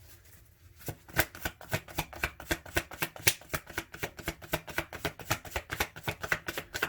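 Tarot cards being handled and shuffled: a fast, irregular run of light card clicks and slaps, several a second, starting about a second in.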